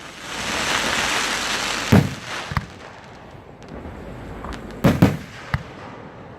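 Fireworks going off: a rushing hiss lasting about a second and a half, then a loud bang about two seconds in with smaller pops after it, and a pair of bangs about five seconds in.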